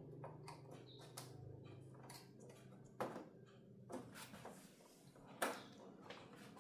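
Irregular light clicks and taps of hard objects being handled, the loudest about five and a half seconds in, over a faint low hum that dies away partway through.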